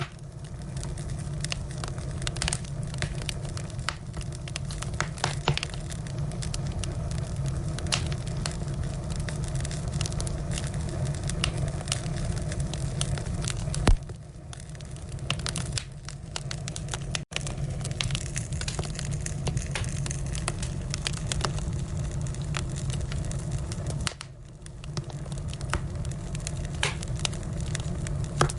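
Firewood burning, with frequent crackles and pops over a steady low rumble. There is a louder snap about halfway through.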